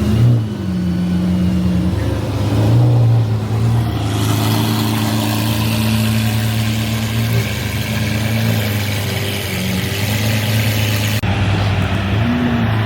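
Car engine running at fairly steady revs, with a rising wash of road and tyre noise as the car moves off. The sound changes abruptly near the end, as at an edit.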